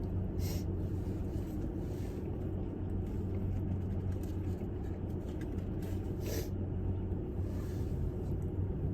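Steady low hum of an idling car engine heard inside the cabin, with two brief crackling noises about half a second and six seconds in.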